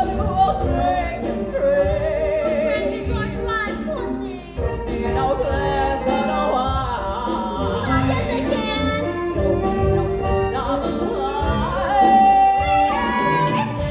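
A song from a live stage musical: a singer with pitch sliding and held notes, over band accompaniment with a steady low beat.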